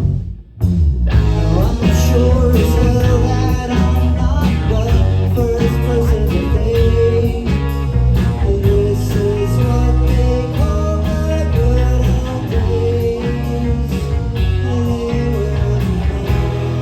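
Live rock band playing with a singer, guitars and drums. After a brief gap, the full band comes back in about a second in.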